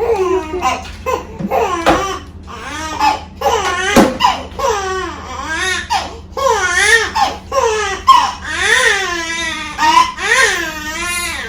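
Infant crying hard in repeated high wails, each cry rising and falling in pitch. The crying follows a pentavalent (5-in-1) vaccine injection.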